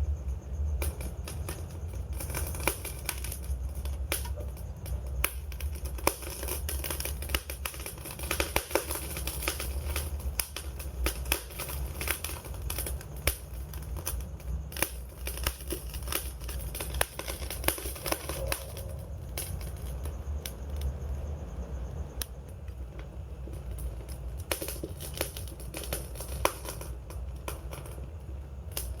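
Campfire crackling: dense, irregular pops and snaps of burning wood over a steady low rumble of the flames.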